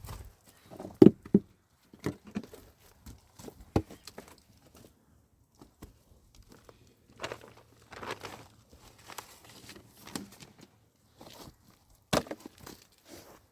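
Irregular knocks, scrapes and rustling, as of someone moving about and handling things. There is a sharp knock about a second in and another near the end.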